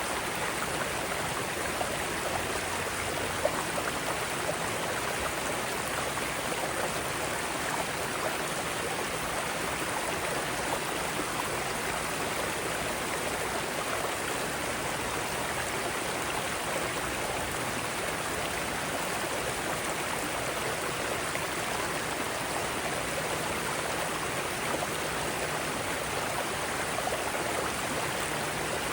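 Mountain stream rushing over rocks in rapids: a steady, even rush of water.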